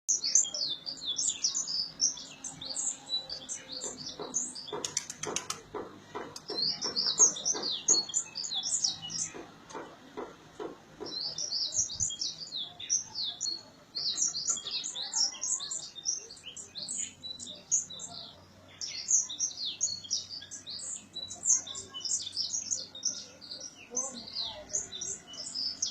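Small birds chirping, with rapid high chirps overlapping almost without a break and a few short pauses. Between about 4 and 10 seconds in, a run of evenly spaced clicks or knocks sounds under the chirping.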